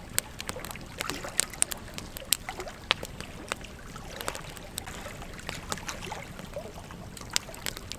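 Wood campfire crackling with frequent sharp, irregular pops, over a calm stream trickling and burbling.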